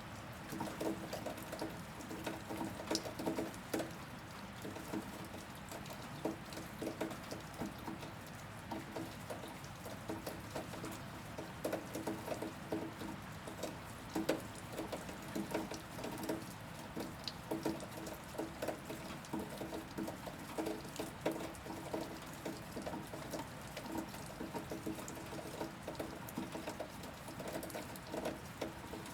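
Rain falling steadily, with many irregular drops pattering and tapping on a hard surface throughout.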